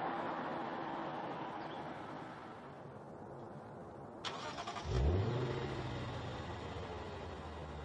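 Lexus RC F 5.0-litre V8 with an aftermarket exhaust being started: after a few seconds of fading hiss, the starter cranks briefly, the engine catches with a short rev flare about five seconds in, then settles into a steady idle.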